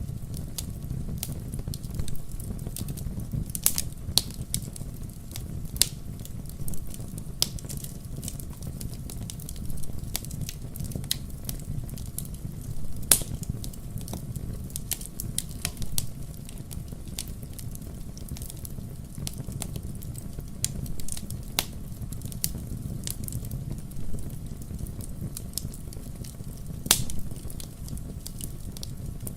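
Wood fire burning: a steady low rumble with irregular sharp crackles and pops from the logs, a few each second.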